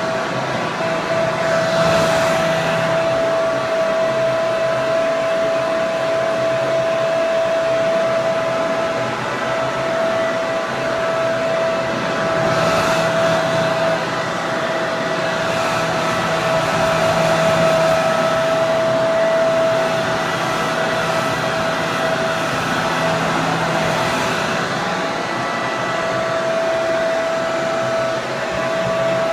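Hair dryer running continuously: a steady rush of air with a constant motor whine, swelling slightly in loudness now and then.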